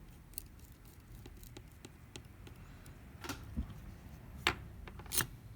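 A few small sharp clicks and taps from handling small phone parts and tools during reassembly, the strongest about three, four and a half and five seconds in, over a faint low hum.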